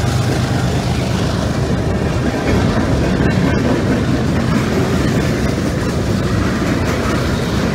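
Freight cars of a mixed freight train (gondolas, covered hoppers, boxcars) rolling past close by: a steady, loud noise of steel wheels on the rails. The just-passed diesel locomotive's low drone fades out over the first two seconds.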